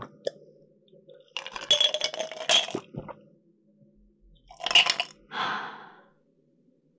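Dishes and utensils clinking and scraping on a table in two bursts, the first about a second and a half in and the second near five seconds, the second trailing off in a short rustle.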